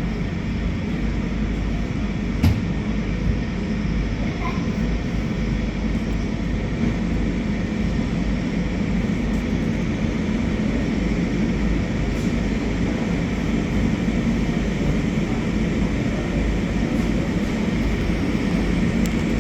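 Steady low rumble of airliner jet engines running at taxi power, with one sharp click about two and a half seconds in.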